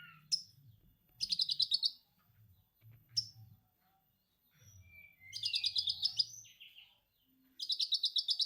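Cage-bird song from a konin and lovebird training recording: three rapid, high chattering trills of under a second each, about a second in, in the middle and near the end, with short sharp chips between them.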